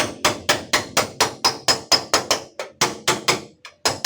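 Hammer rapidly tapping a dent out of a Daihatsu van's sheet-metal rear door panel, in sharp, even strikes about four or five a second with a short ring after each. A brief pause comes near the end before the tapping resumes.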